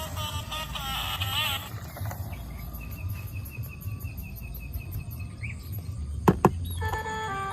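A short electronic tune, then a high trilling tone for about three seconds, then two sharp clicks in quick succession before the tune starts again.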